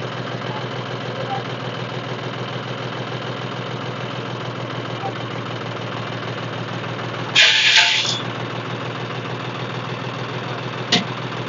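Diesel tractor engine idling steadily. About seven seconds in, a loud hiss lasts under a second, and a short sharp click comes near the end.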